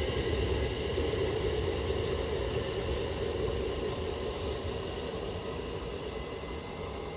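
London Northwestern Railway class 350 Desiro electric multiple unit pulling out of the station. Its running noise carries several steady tones and grows gradually fainter as it moves away.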